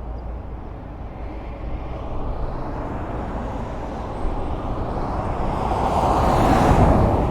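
Highway traffic: a steady rumble of cars on the road, with one vehicle passing close and growing louder through the second half before dropping off sharply at the end.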